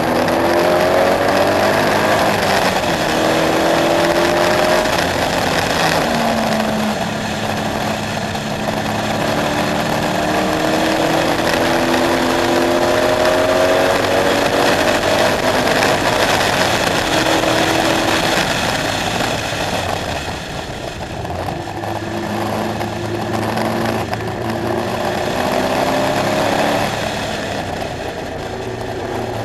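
KTM X-Bow's engine at speed, pulling up through the revs in repeated rising sweeps with gear changes between them. It eases off about two-thirds of the way through, then accelerates again.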